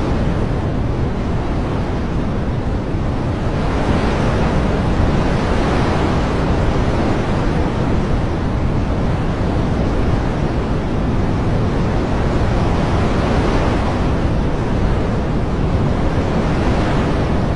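Steady rushing noise of water, swelling slightly a few seconds in and again towards the end.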